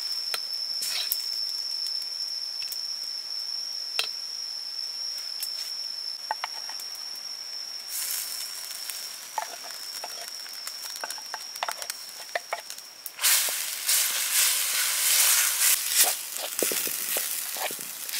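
Curry paste sizzling loudly as it fries in a steel wok from about 13 seconds in, with the scrape and clack of a wooden spatula stirring it. Before that, a few clinks of a ladle against the wok over a steady high whine.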